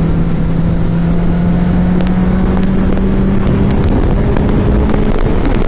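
Honda CBR1000RR's inline-four engine running steadily under way, its pitch creeping up slightly about halfway through, with low wind rumble on the microphone.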